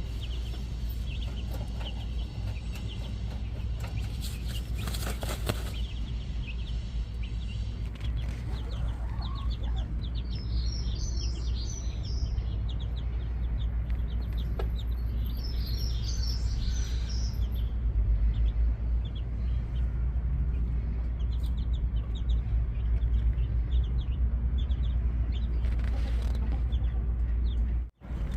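Backyard birds chirping over and over, with two bursts of busier twittering about ten and sixteen seconds in, over a steady low rumble. A brief rustling burst comes about four to five seconds in.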